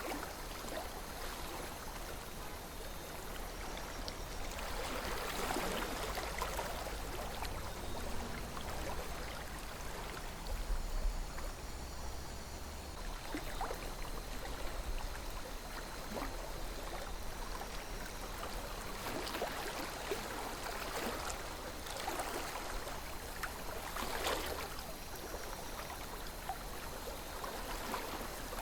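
A river flowing steadily, with brief louder gurgles and splashes now and then over the running water and a low rumble underneath.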